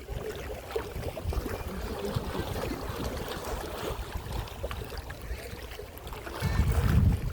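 Wind buffeting the microphone in a low rumble, with a stronger gust near the end.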